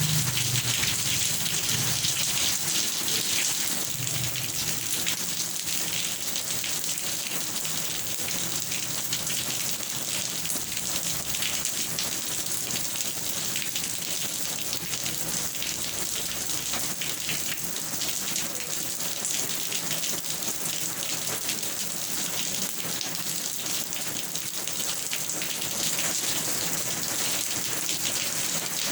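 Steady rain falling, a dense even hiss of countless drops. A low rumble fades out in the first few seconds.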